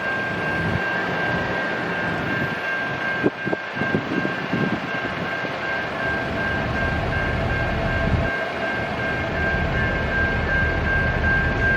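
Freight train rolling past with a steady rumble of wheels on rail and irregular knocks. Over it runs a high, evenly pulsing ring, like a grade-crossing bell.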